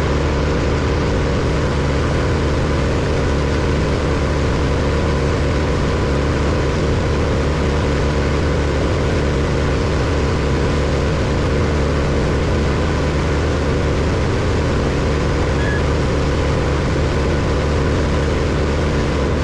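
Large diesel-powered wood chipper running steadily, a deep engine sound that holds one pitch throughout.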